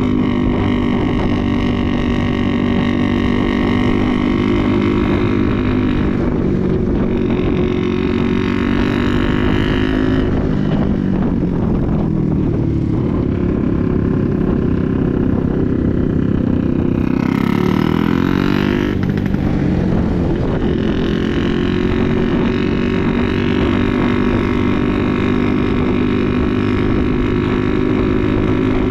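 Motorcycle engine running steadily under way, its pitch dipping and climbing again twice as the speed changes.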